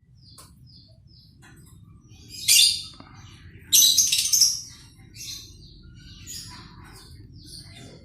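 Oriental magpie-robin (kacer) calling: scattered short high chirps, with two louder, harsher bursts of calls about two and a half seconds in and again about four seconds in.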